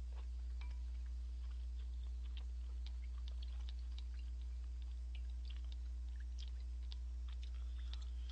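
A person chewing a mouthful of ramen noodles, with small scattered mouth and utensil clicks, over a steady low electrical hum.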